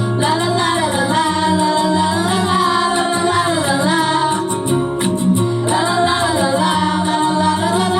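Pop song: female voices sing a gliding, drawn-out melody without clear words over a backing track with sustained low notes.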